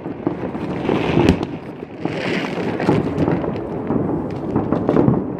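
New Year fireworks and firecrackers going off in a dense, continuous stream of bangs and crackles, with a heavier bang a little over a second in.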